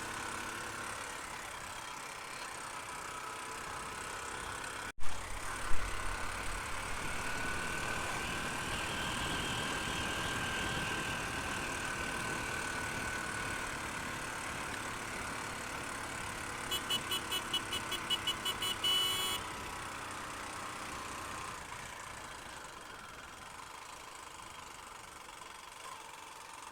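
Honda Unicorn motorcycle's single-cylinder engine running steadily on the move, with wind and road noise. About two-thirds of the way through comes a quick run of about eight short beeps.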